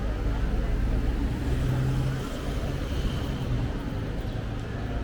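Motor vehicle engine running close by, a low steady hum that is loudest in the first two seconds, over general city street noise.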